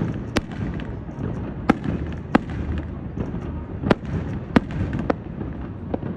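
Aerial fireworks shells bursting in a display: about seven sharp bangs, roughly one a second, over a continuous low rumble.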